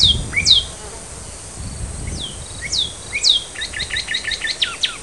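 Northern cardinals giving sharp, high chip calls that sweep downward in pitch: several spaced chips, then a quick run of about five a second in the last second and a half.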